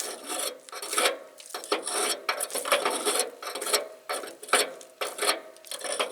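Metal scraping and rubbing in short, irregular strokes, about three a second, as metal parts on a truck's fender mount are worked by hand.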